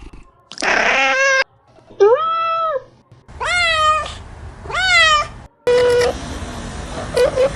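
Domestic cat meowing: four separate meows, each rising then falling in pitch, with short gaps between them, the first one harsher.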